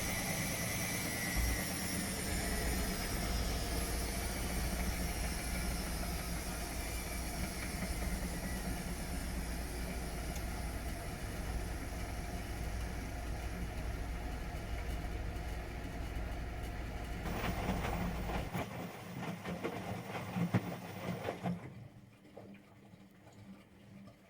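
Washing machine motor and drum running with a steady hum whose whine falls in pitch, as at the end of a spin. Near the end it rattles and clicks briefly, then stops suddenly.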